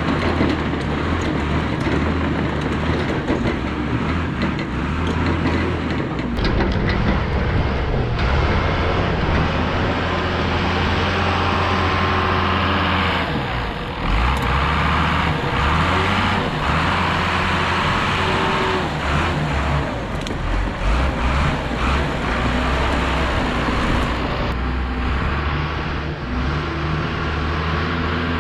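Case 850D crawler dozer's diesel engine running under load, its pitch and level shifting as it works, with intermittent rattles and clanks over the engine.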